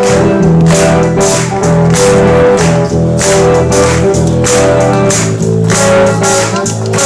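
Live band playing an instrumental passage: drums keeping a steady beat under bass and guitar.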